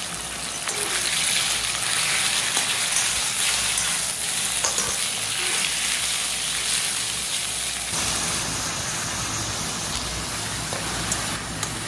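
Lean meat stir-frying in hot oil in a wok, a steady sizzle that eases a little about eight seconds in.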